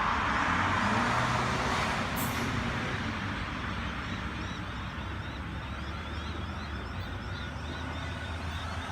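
Sydney Trains Waratah A-set electric train pulling out of the platform. Its running noise is loudest at the start and fades over the first few seconds as it moves away, leaving a steady low hum.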